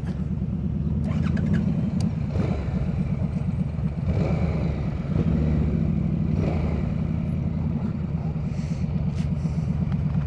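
Motorcycle engine running steadily with a low, even throb, the bike moving slowly.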